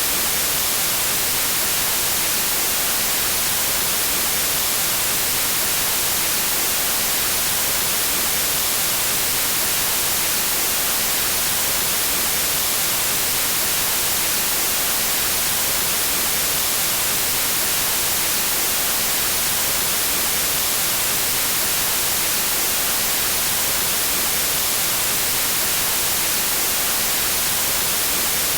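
Synthetic white noise: a steady, even hiss, brightest in the high end, with no change in level.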